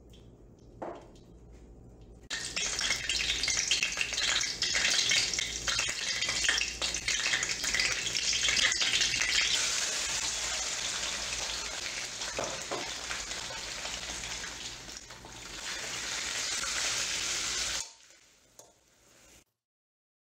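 Raw bone-in chicken pieces hit hot oil and whole spices in a karahi (a deep round wok-like pan), starting a loud sizzle about two seconds in. The sizzle keeps going as the pieces are stirred with a perforated metal skimmer, with occasional scrapes against the pan, and cuts off suddenly near the end.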